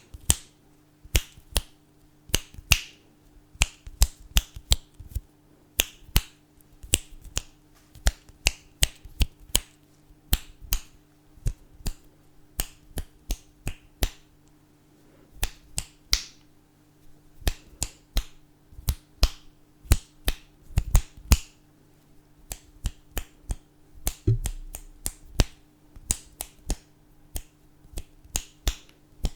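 Fingers snapping again and again, close to the microphone, in irregular runs of quick snaps with short pauses between.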